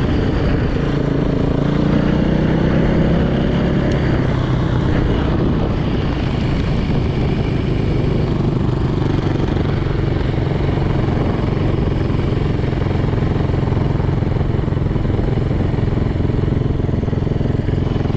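Freshly rebuilt Yamaha YZ450 four-stroke single-cylinder dirt bike engine running while the bike is ridden at low speed, its pitch rising a little in the first few seconds and then holding steady.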